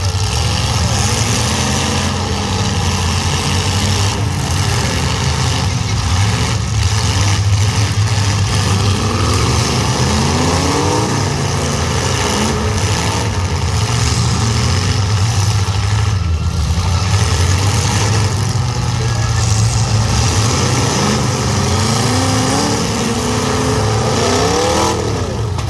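Demolition derby cars' engines running and revving hard, several at once, their pitch rising and falling again and again over a steady low rumble.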